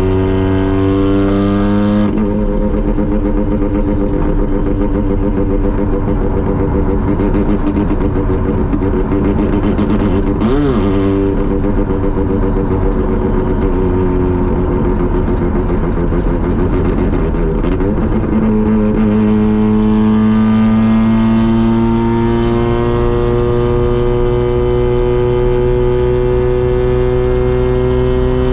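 Mazda RX-7 rotary engine and exhaust running under way. The engine note rises slightly, shifts around two seconds in and holds steady through the middle. Near the end it picks up again and climbs slowly as the car accelerates.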